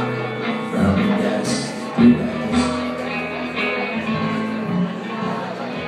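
Live acoustic folk music, with guitar playing and no singing in these seconds.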